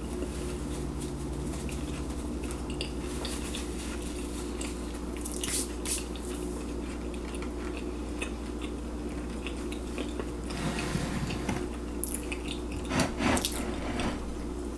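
A person chewing a torta de milanesa, a breaded steak sandwich, close to the microphone: wet mouth clicks and crunches, with louder bites about five seconds in and again near the end. A steady low hum runs underneath.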